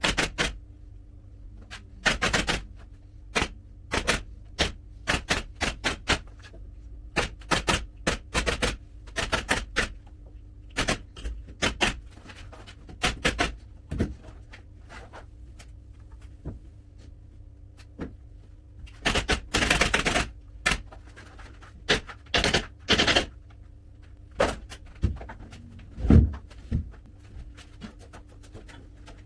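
Upholstery staple gun firing staples one after another in irregular sharp clacks, sometimes in quick pairs or clusters, as fabric is fastened to a sofa frame.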